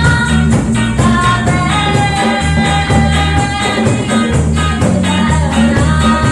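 Live band playing a reggae song: a steady bass line under a held, sung melody.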